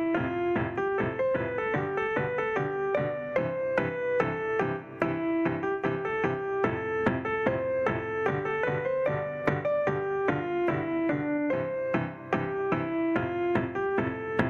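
Electronic keyboard with a piano sound playing a children's song: a melody over chords, notes struck at a steady, even beat.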